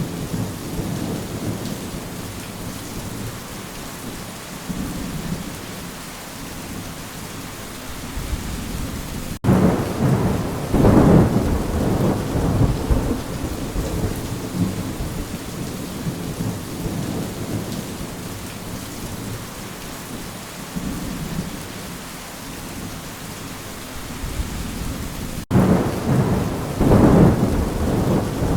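Steady rain with thunder rumbling twice: once about ten seconds in and again near the end, each rumble starting suddenly and rolling on for a few seconds.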